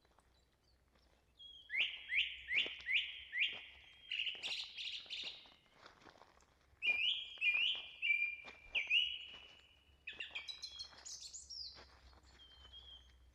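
A songbird singing: a run of four or five loud, evenly repeated whistled notes, a brief trill, then a second run of similar notes, followed by quicker, higher notes near the end.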